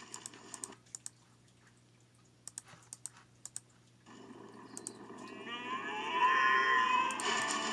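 A dozen or so sharp, irregular clicks over near quiet, then music coming in and growing louder from about five seconds in.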